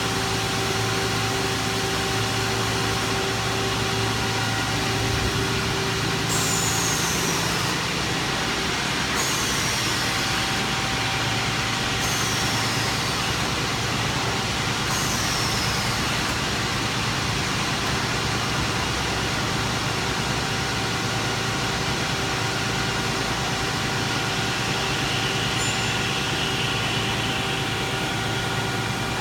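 Yeonil CNC slotting machine running under power: a steady machine hum with several held tones. In the first half, four falling high-pitched whines come about three seconds apart.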